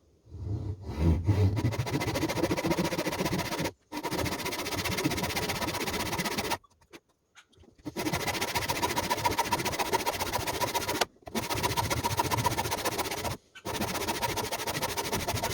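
Spotted gum maul handle being shaped by hand, wood scraped away in a steady rasping run of rapid strokes. The runs last a few seconds each with short pauses between, and there is a heavier knock about a second in.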